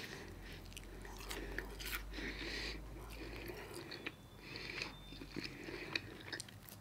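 A person chewing and biting crunchy deep-fried food, wet mouth sounds with crisp crackles.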